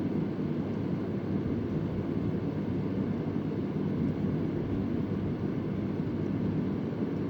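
Vintage Convair oscillating electric fan running: a steady, deep rush of moving air that stays even in level.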